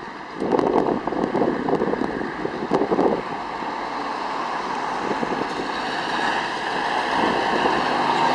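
Scania R730 truck's 16-litre V8 diesel running, the sound growing steadily louder over the last few seconds as it draws nearer. Wind buffets the microphone in the first three seconds.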